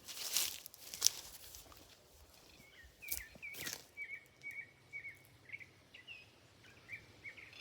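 A songbird chirping: a rapid string of short, high chirps starting about two and a half seconds in and carrying on. A few short rustling noises come before and among them, the loudest in the first second.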